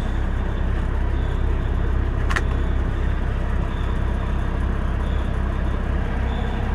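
A semi-truck's diesel engine running steadily as a low, even rumble, with one short click about two seconds in.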